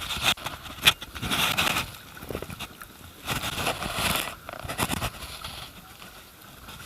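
Kayak on a river: irregular swells of paddle splashing and rushing water, with a couple of sharp knocks in the first second.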